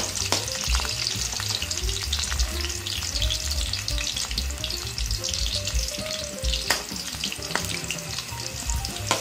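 Sliced onion and garlic sizzling and crackling in hot oil in a wok, stirred with a metal utensil that clicks against the pan a few times.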